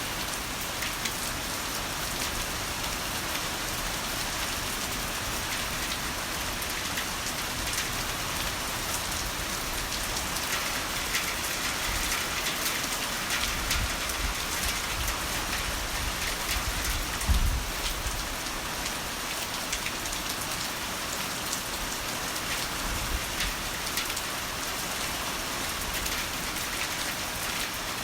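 Heavy rain falling steadily. A low rumble of rolling thunder swells a little before halfway and peaks just past the middle before fading.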